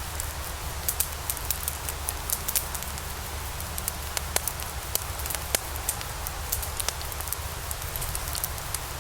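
Logs burning in a fireplace: irregular sharp crackles and pops over a steady hiss.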